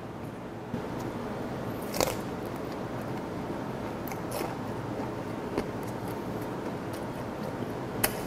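Close-miked chewing of bone-in gizzard shad sashimi, the fish's small bones crunching between the teeth. A few short sharp clicks stand out, the loudest about two seconds in.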